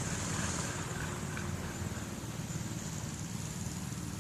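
Mini bike engine running steadily at speed.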